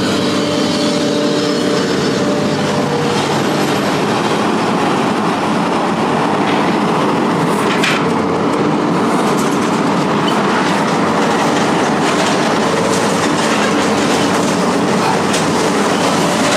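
Loud, steady mechanical rumble with metallic rattling and scattered sharp clicks, like heavy machinery or a large vehicle running.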